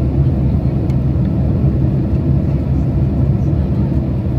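Steady low rumble of a Boeing 767's cabin during the approach to landing: engine and airflow noise heard from a window seat.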